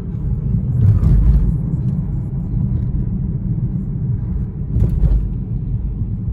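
Car cabin noise while cruising: a steady low engine and road rumble, with two brief louder bumps about a second in and just before five seconds.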